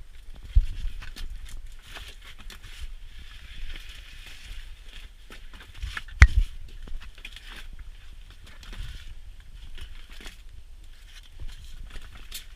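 Irregular crunching and scraping steps on stony ground, with scattered clicks and a sharp knock about six seconds in.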